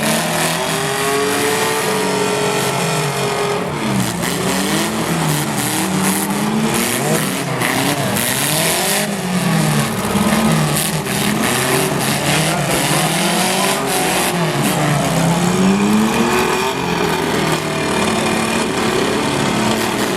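Several racing cars' engines revving up and down together on a speedway track, their overlapping pitches rising and falling continuously, with some tyre squeal.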